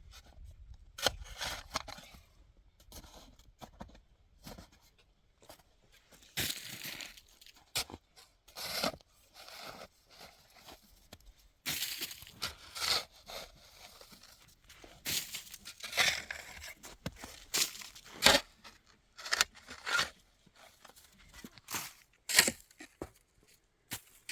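Irregular rustling, scraping and tearing noises, with short sharp clicks, as of things being handled by hand.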